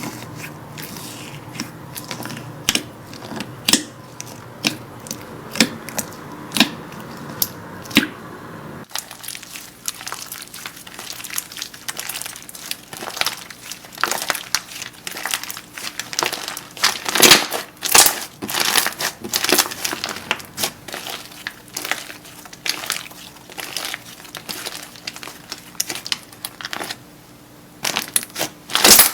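Slime being squeezed and pressed close to the microphone, giving crisp crackling and popping clicks. The clicks grow denser and louder after a change of clip about nine seconds in.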